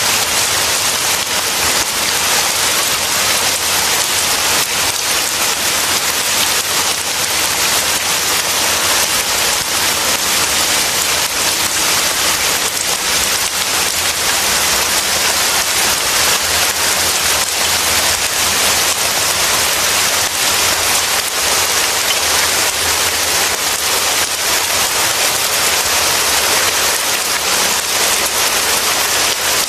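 Rain falling steadily: a dense, even hiss that holds the same level throughout, with no thunder claps.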